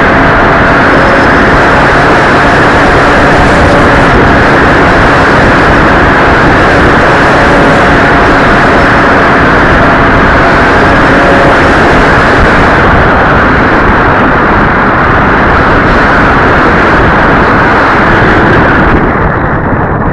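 Loud, steady rush of wind over the microphone during an RC plane flight, with the faint steady whine of the plane's motor now and then; the rush drops away near the end.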